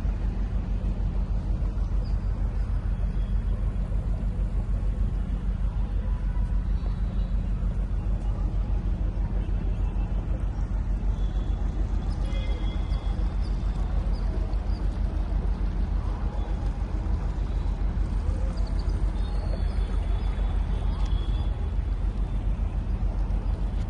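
Motorboat engine running steadily, a continuous low rumble with a fast, even throb. Faint high chirps come in about halfway through and again near the end.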